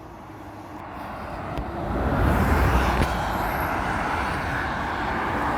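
A road vehicle, likely a truck, driving past: engine and road rumble that swells about two seconds in and then stays loud.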